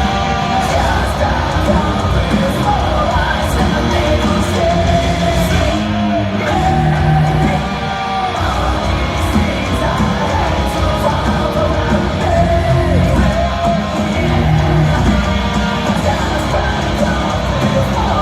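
Live heavy metal band playing loud, with a singer's sung and yelled vocals over the guitars.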